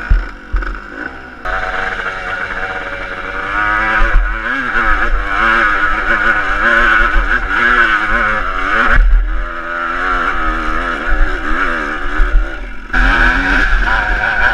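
Motocross bike engine being ridden hard, revving up and down with each gear and throttle change. It eases off shortly after the start and again about nine seconds in, then picks up strongly near the end.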